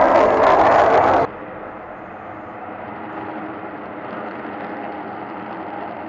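Loud jet roar from Blue Angels F/A-18 Hornets in flight, cut off abruptly about a second in and followed by a much quieter steady rumble.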